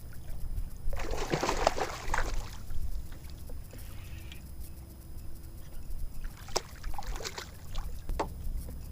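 Water splashing and dripping beside a kayak as a walleye is landed: one longer burst of splashing about a second in, then a run of short splashes and drips later on, over a steady low rumble.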